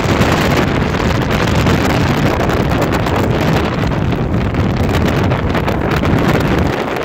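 Strong storm wind buffeting the microphone, a loud, continuous low rumble that eases slightly near the end.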